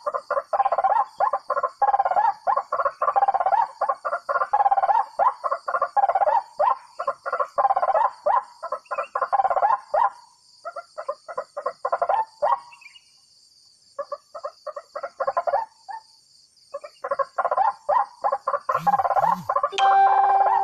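A flock of whistling ducks (belibis) calling: dense, rapid chattering whistles, thinning to scattered calls with two short pauses around the middle, then dense again.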